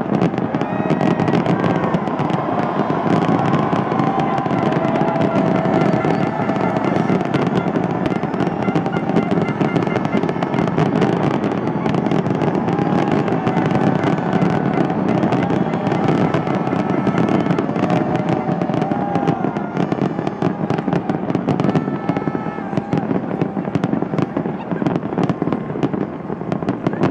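Fireworks display going off without a break: a dense, rapid crackling of many bursts at once.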